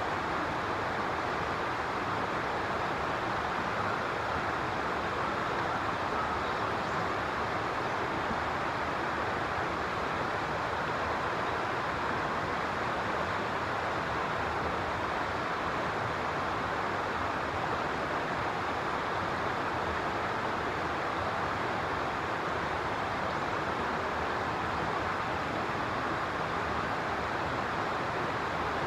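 Steady outdoor rushing noise, even and unchanging throughout, with no bird calls standing out.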